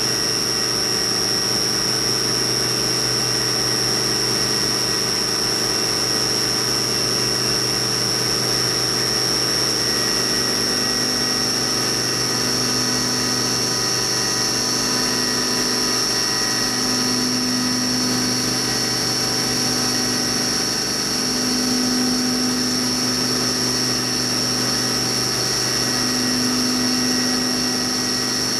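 Haas VF-2B CNC milling machine running a cutoff, a 1/8" end mill spiral-cutting through a brass bar held in an HA5C indexer, with a steady high whine. From about ten seconds in, a lower hum comes and goes in stretches of one to two seconds.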